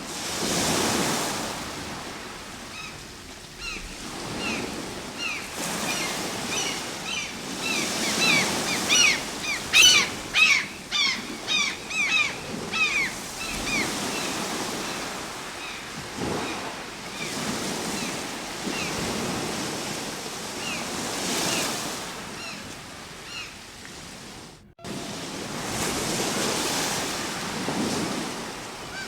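Ocean surf: waves breaking and washing in slow surges that swell and fall every few seconds. Through the middle comes a run of short, quick, high chirps. There is a brief sudden drop-out near the end.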